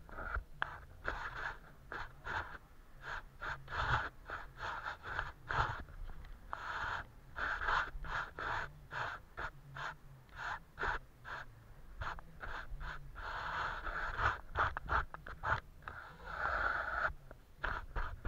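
Paintbrush stroking over paper: a run of many short, irregular brushing sounds, with a few longer sweeps around the middle and near the end.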